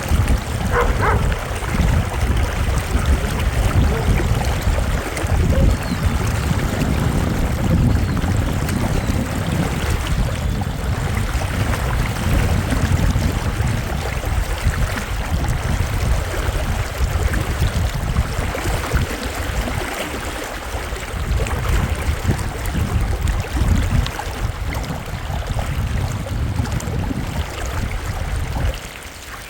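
A fast wild river rushing steadily, with a heavy low rumble under the water noise; it drops a little just before the end.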